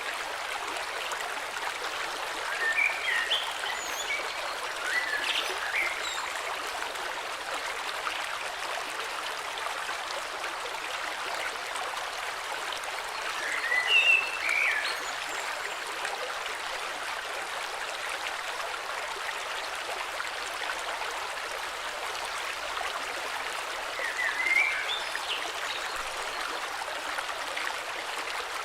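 A river flowing steadily, with short bird chirps a few times over it, loudest about halfway through.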